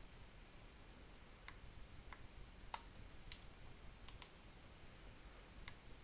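Near silence, with about half a dozen faint, sharp clicks scattered irregularly over a few seconds.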